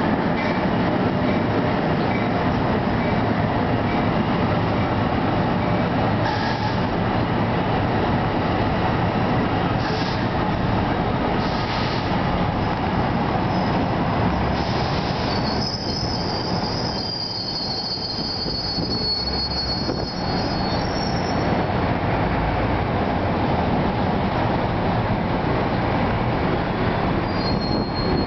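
Electric-hauled New Jersey Transit bilevel commuter train rolling slowly into a station with a continuous rumble of cars over the track. Partway through, a high metallic squeal comes in for several seconds as it slows to stop, and a short squeal returns near the end.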